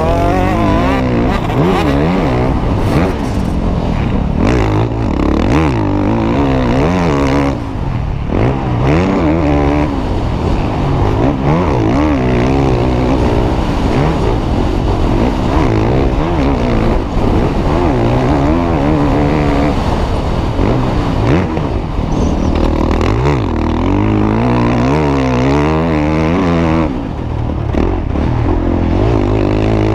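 Motocross bike engine being ridden hard, its revs rising and falling over and over through the gears, with a brief drop in the throttle twice.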